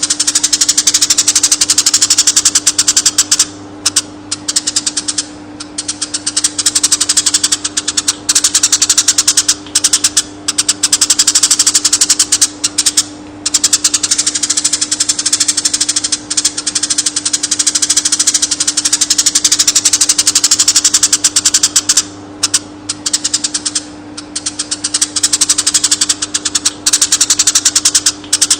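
Konin bird singing long, very rapid high-pitched chattering trills, broken by short pauses every few seconds, over a steady low hum.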